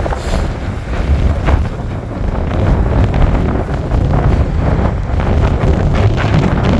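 Blizzard wind buffeting the microphone: a loud, steady low rumble of gusts.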